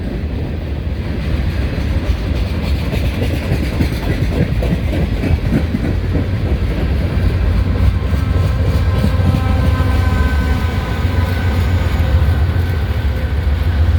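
Freight train rolling past with a distributed-power diesel locomotive (DPU) in the consist: a steady, loud low rumble of the locomotive and of wheels on rail. Faint high steady tones join from about seven seconds in.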